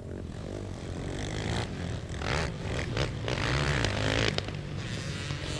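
Racing quads (ATVs) lapping a dirt flat track, their engines revving hard and easing off as the pack passes, loudest between about two and four and a half seconds in.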